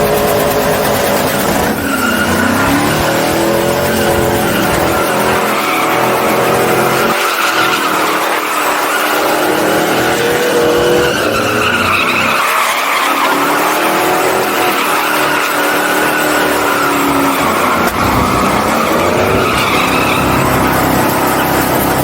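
A truck engine revving hard, its pitch rising and falling again and again, with tires squealing against the pavement: a burnout.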